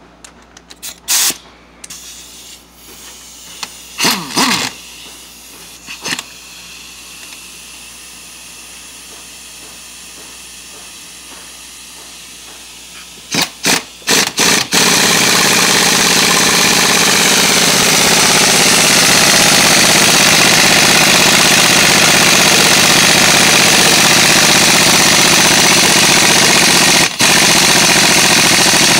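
Impact wrench hammering on a tight fastener: a few short trigger bursts, then one long continuous run of about fourteen seconds with a brief break near the end. The fastener is too tight to break loose. Before that come a few scattered tool clicks.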